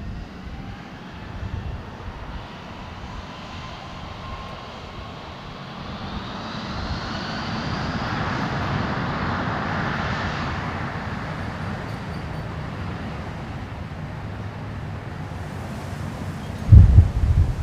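Jet airliner taking off: the engine noise swells to a peak about halfway, with a rising whine, then slowly fades. Near the end comes a brief, loud, low thud.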